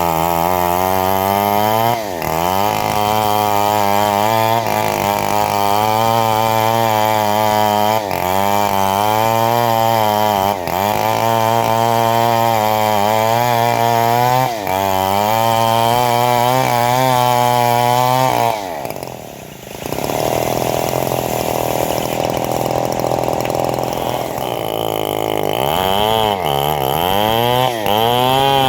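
Homemade bandsaw mill's motor running under load while sawing a mahogany log, its pitch sagging and recovering again and again as the blade works. About two-thirds through it drops away briefly, then comes back and settles before sagging under load again near the end.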